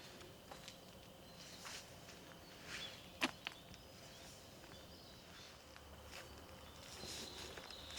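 Footsteps on a forest trail, soft and uneven, with a sharp click about three seconds in. Small birds chirp faintly and high in the background.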